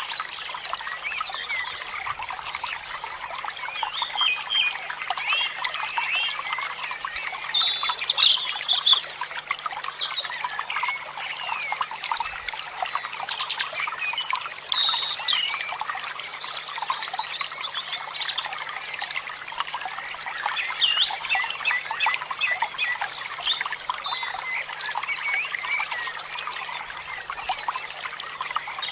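Many birds chirping and calling at once: a dense, continuous chorus of short overlapping calls.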